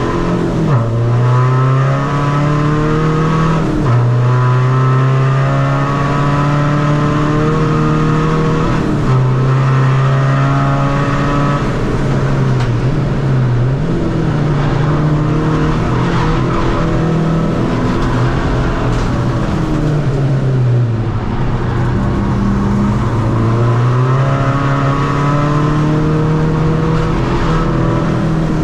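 Tuned Seat Ibiza FR's 2.0 common-rail diesel four-cylinder engine driven hard on track through a short-ratio gearbox: the engine note climbs under load, then falls sharply at each gear change, several times, with a few slower dips and rises as the throttle comes off and back on.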